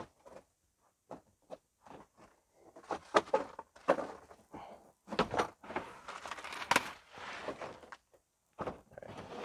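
Unboxed parts being handled: a run of irregular clicks, knocks and rustling from plastic liners and packaging, busiest in the middle.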